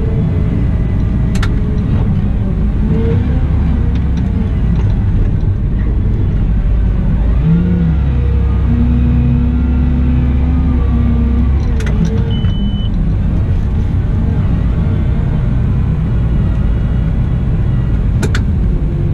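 Cat 972M XE wheel loader's diesel engine and driveline running steadily under work, with a whine that bends up and down in pitch. Three sharp clicks are heard, and there is one short high beep just past the middle.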